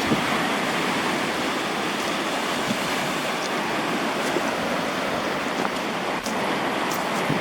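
Steady rushing of sea surf, with a few faint clicks.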